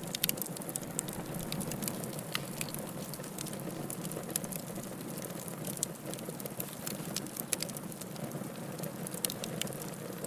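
Wood fire burning with a steady low hiss, and the logs crackling and popping in irregular sharp snaps throughout.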